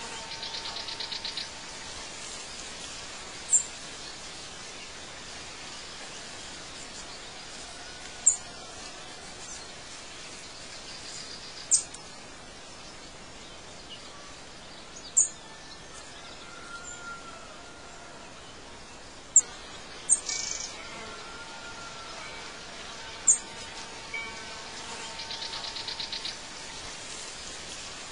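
Birds chirping: short, high chirps every few seconds over a steady background hiss, with a buzzy trill near the start and again near the end.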